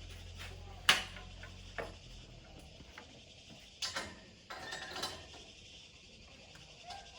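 Scattered sharp clicks and knocks of small hard parts being handled, the loudest about a second in, over a low hum that stops about two seconds in.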